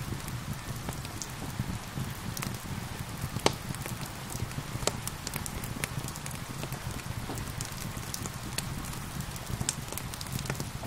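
Wood fire crackling with scattered sharp pops, one louder pop about three and a half seconds in, over a steady patter of rain.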